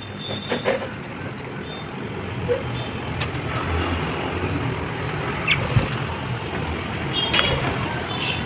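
Steady low background noise, with a few short high chirps from lovebirds, one at the start and a pair about seven seconds in, and a few sharp clicks between them.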